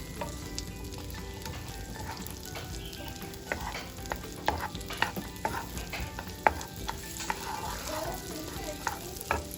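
Chopped onions frying in butter in a pan, a steady sizzle, while a spatula stirs them and knocks sharply against the pan several times in the second half.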